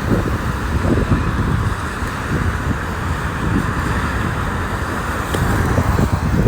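Wind buffeting the microphone over a steady roar of engine noise.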